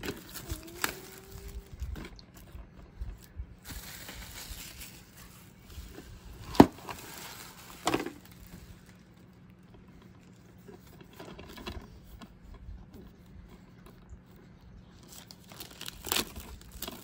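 Plastic shrink-wrap being peeled and crinkled off a DVD box set: irregular crinkling and rustling with scattered sharp clicks and snaps. The loudest snap comes about six and a half seconds in, with another about eight seconds in.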